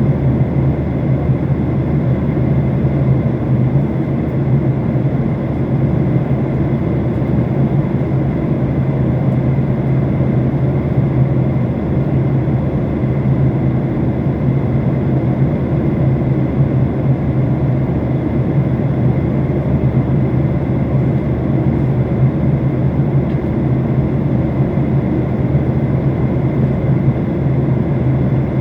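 Aircraft cabin noise in flight: a steady, loud rumble of engines and airflow with a low hum.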